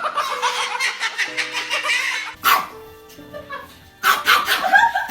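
Quick, repeated barking over background music: a fast run of barks for about the first two seconds, a pause, then another burst about four seconds in.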